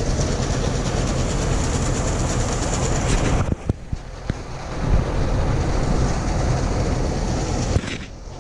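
Starter cranking the Wrangler loader's engine over in long attempts on a weak, just-recharged battery, breaking off about three and a half seconds in and again near the end without the engine catching.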